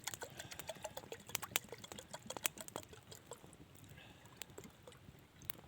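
Wood campfire crackling: irregular sharp pops and snaps over a low hiss.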